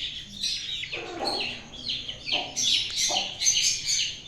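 Young Shamo and Aseel chicks peeping continuously in quick, high chirps, with a few shorter, lower calls mixed in.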